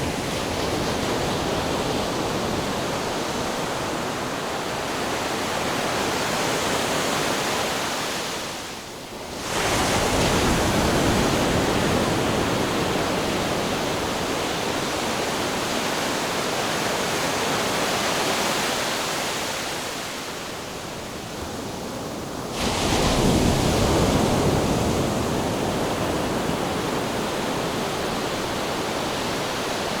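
Ocean surf: a steady rush of breaking waves, swelling suddenly twice, about ten seconds in and again near two-thirds of the way through.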